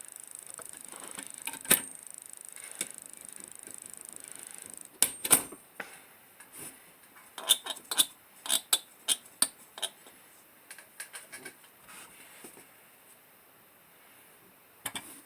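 Irregular light clicks and clinks of small metal parts being handled, thickest between about five and ten seconds in, with a faint high steady hiss during the first few seconds.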